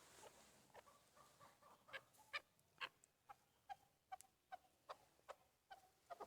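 Chukar partridges giving faint, short clucking call notes, a quick series of about two notes a second.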